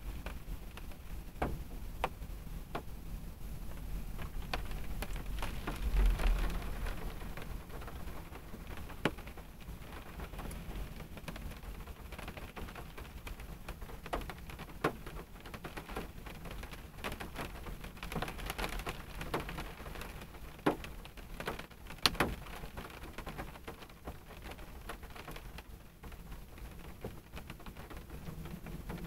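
Rain falling on a car, heard from inside the cabin: a steady patter with scattered drops tapping sharply on the roof and windshield, a few of them much louder near the end. A low rumble swells and fades about six seconds in.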